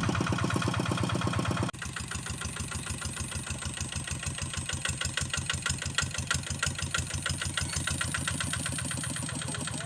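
Hand tractor's engine running with an even, fast beat while plowing a rice paddy. The sound drops suddenly in level just under two seconds in and carries on quieter.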